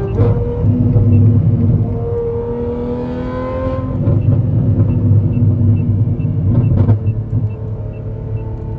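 Straight-piped Ferrari 812 Superfast's V12 exhaust while driving, the engine note climbing slowly for about four seconds, then dropping and holding steady. Brief sharp cracks just after the start and again near the end.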